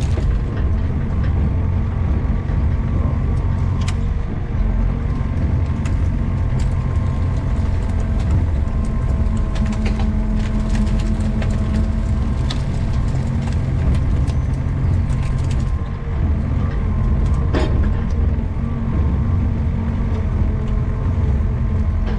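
Mini excavator's engine running steadily under load, with occasional sharp knocks and cracks from the machine at work.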